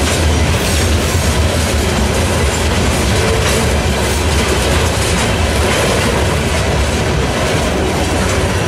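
Loaded rock hopper cars of a freight train rolling past at steady speed, their steel wheels clacking on the rails.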